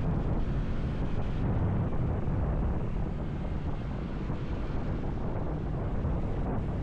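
Wind rushing over the microphone of a moving motorcycle, a steady low rumble with no break.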